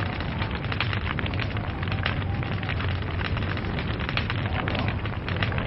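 Log fire crackling steadily: a dense, continuous run of small snaps and pops over a low rumble.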